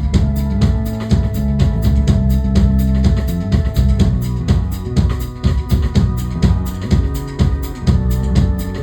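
A band playing a song: a drum kit keeps a steady beat of about four hits a second, with bass drum and snare, under bass and sustained chords.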